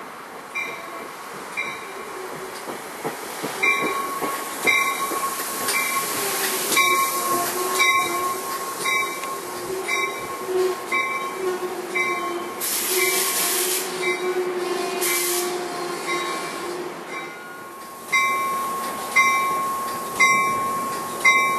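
NJ Transit commuter train, a Comet V cab car pushed by an ALP-46A electric locomotive, arriving and stopping at a platform, its bell ringing about once a second, louder near the end. A steady high squeal of wheels and brakes runs under the bell while the train moves, with two short bursts of air hiss about two-thirds of the way through.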